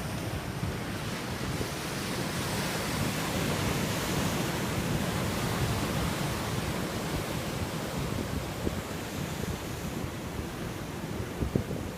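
Storm surf on the Mediterranean: a steady wash of breaking waves, with wind buffeting the microphone. A couple of short knocks near the end.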